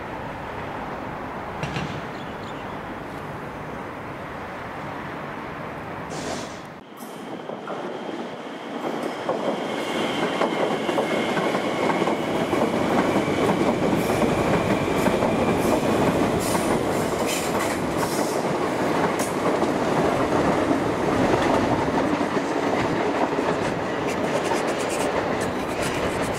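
Electric suburban train passing on the tracks, growing louder about ten seconds in, its wheels clicking over the rail joints with a faint high whine.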